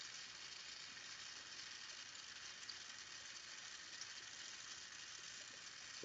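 Faint steady hiss of a Carlisle glassworking torch flame.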